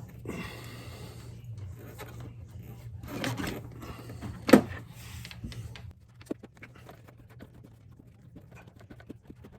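Handling and scraping noises of hands and tools at work, with one sharp click about four and a half seconds in, over a steady low hum that stops about six seconds in.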